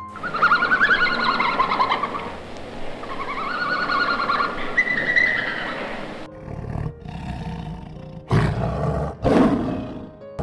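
A farm animal calling: two long, harsh pitched calls over the first six seconds, then breathy grunting sounds with two loud bursts near the end.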